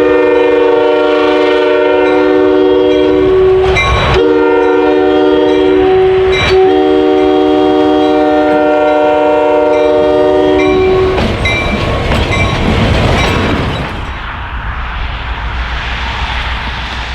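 Multi-chime air horn of a Norfolk Southern GP59 diesel locomotive sounding three blasts, the last the longest, over the low rumble of the moving train. After the horn stops about 11 seconds in, only the quieter running noise of the train remains.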